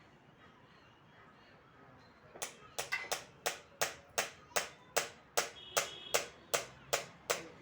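A run of sharp, evenly spaced knocks, about three a second, starting a couple of seconds in, each with a brief ring.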